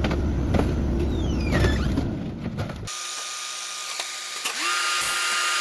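Garbage truck at work: a heavy engine rumble with mechanical clicks and a falling squeal, then, after an abrupt change about three seconds in, a steady mechanical whine over hiss.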